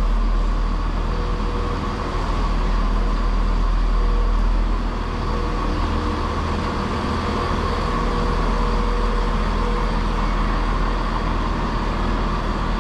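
ScotRail Class 170 diesel multiple unit idling: a steady low engine rumble with a faint steady whine over it.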